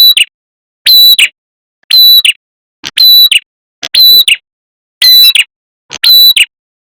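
Ashy tailorbird (prenjak kepala merah) call played as a bird lure: a short, sharp, high chirping call repeated about once a second, with dead silence between calls.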